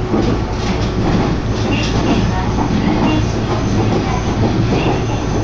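Local passenger train running at speed, heard from inside the carriage: a loud, steady rumble and hum with wheels clicking over the rail joints.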